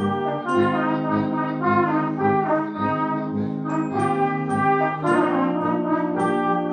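Brass band playing: held chords over low bass notes repeating about twice a second, with short high ticks on the beat.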